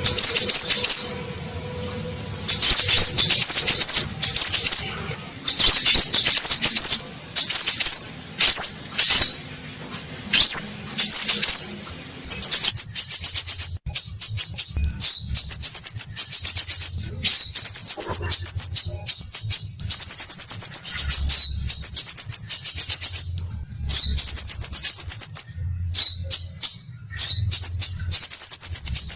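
Sepah raja (scarlet minivet) singing: loud, high-pitched phrases of quick sweeping whistles about a second long, separated by short gaps. After about twelve seconds the song turns into a near-continuous fast, chattering trill.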